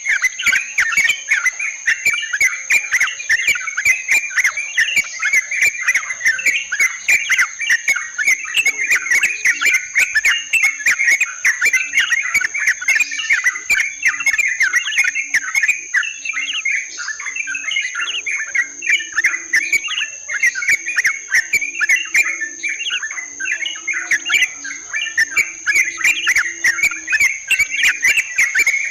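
Yellow-vented bulbuls (trucukan) singing and chattering without pause, a dense run of quick, repeated calls. A steady high-pitched insect-like whine runs underneath.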